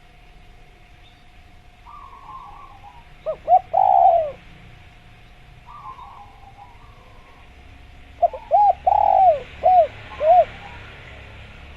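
Spotted dove (tekukur) cooing: a couple of short notes and a longer rolling coo about three seconds in, then a series of five arched coos from about eight seconds in. Fainter coos from another dove sound in between.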